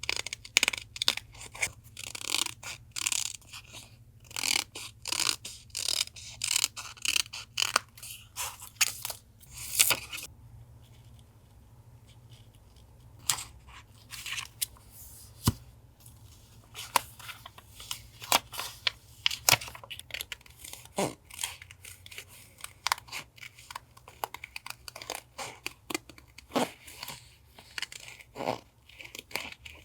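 Paper being handled for a journal collage: quick, dense rustling and crinkling for about ten seconds, a short lull, then sparser rustles and light taps. A steady low hum from a refrigerator runs underneath.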